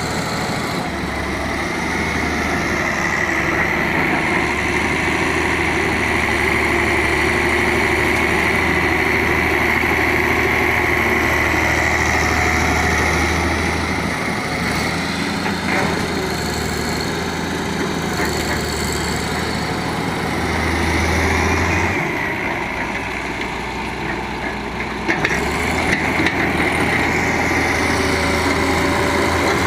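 Diesel engine of an excavator or dump truck running steadily, its load shifting a few times, with a short swell a little past the two-thirds mark.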